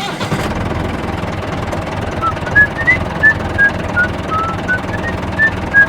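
A steady, low, engine-like rumble. From about two seconds in, a quick string of short, high chirping whistles comes over it, about two or three a second.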